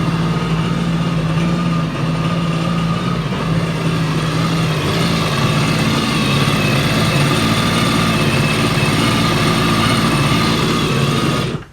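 2010 Yamaha WaveRunner VX Cruiser 110's four-stroke engine running steadily at idle, then shut off abruptly near the end. It is being run briefly on fresh oil after the craft was sunk, to flush milky, water-contaminated oil out of the dry sump.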